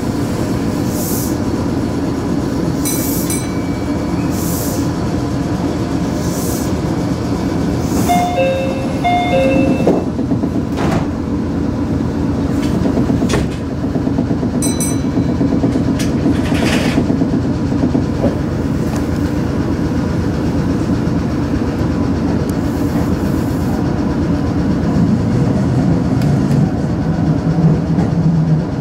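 Meitetsu electric train heard from the driver's cab, running continuously with short high hissing bursts and a brief run of alternating two-note electronic tones about a third of the way in. Near the end a low tone rises in pitch as the train pulls away.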